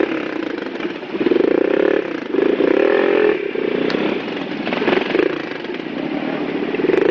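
Motorcycle engines running and revving, the pitch rising and falling in stretches of about a second.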